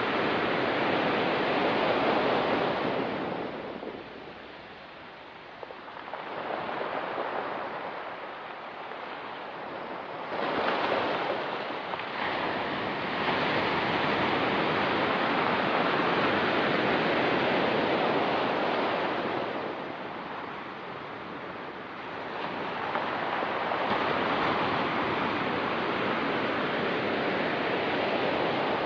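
Ocean surf on a rocky beach: waves break and wash up the shore in swells several seconds long, with quieter lulls between them. One wave breaks sharply about ten seconds in.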